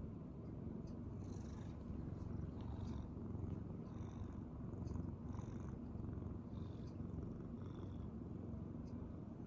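Domestic cat purring steadily, with a few faint higher scratchy sounds over it.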